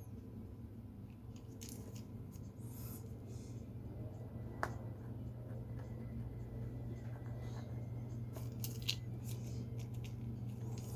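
Faint desk handling sounds from drawing work: a few small clicks and short scratchy strokes, scattered, over a steady low room hum.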